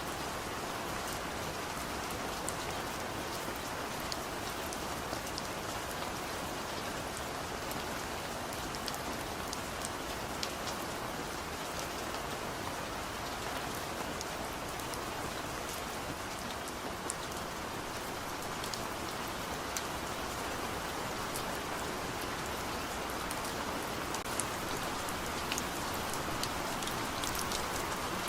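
Heavy rain falling steadily, a dense even hiss with individual drops ticking sharply on a surface throughout.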